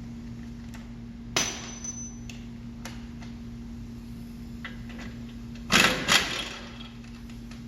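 Metal tools striking and clanking: one sharp ringing clank about a second and a half in, a few light clicks, then two loud strikes in quick succession near the six-second mark, over a steady low hum.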